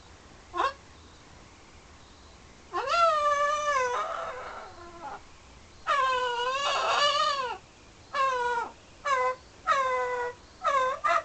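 Blue-and-gold macaw calling loudly: one brief call, then two long calls with wavering pitch, then four shorter calls in quick succession.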